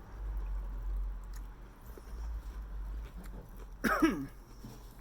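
Chewing and small mouth noises during a meal. About four seconds in comes one brief voice-like sound that falls sharply in pitch, the loudest thing here.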